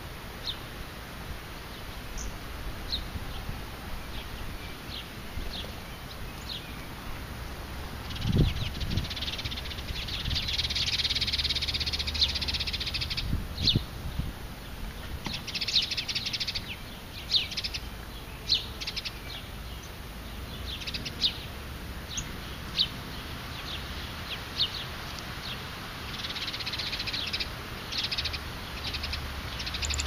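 Small songbirds chirping: scattered short, high chirps throughout, with quick chattering runs about a third of the way in, around the middle, and near the end. A low thump about eight seconds in.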